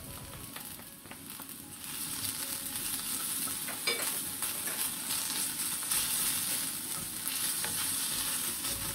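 Ginger-garlic paste sizzling in hot olive oil with browned onions and green chillies in a stainless steel frying pan, stirred with a wooden spatula. The sizzle grows louder about two seconds in and then stays steady.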